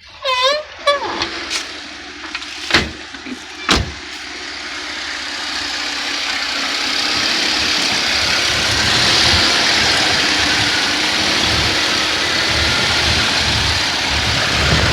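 A few sharp clicks, then the 1988 Plymouth Gran Fury's engine running, its noise building over several seconds and then holding steady.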